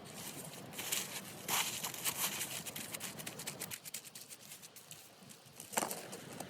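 Irregular rustling and crunching handling noises, with a single sharp knock near the end.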